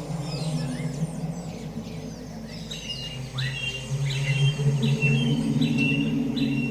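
Songbirds chirping. From about three seconds in, one bird repeats a short call about once every 0.7 seconds, over low sustained tones.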